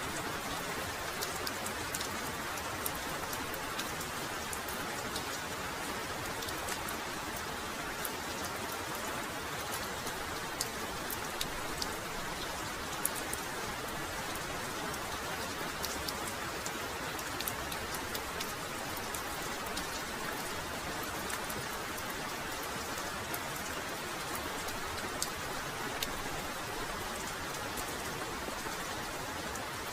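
Heavy rain falling steadily, a dense hiss with many individual drops ticking sharply on nearby surfaces.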